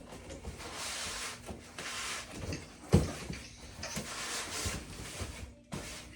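Cardboard box being opened by hand, flaps and packing scraping and rustling, with one sharp knock about three seconds in.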